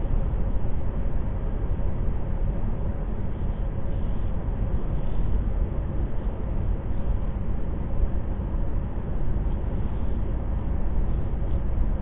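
Steady low rumble of a car driving, with tyre and engine noise heard from inside the cabin.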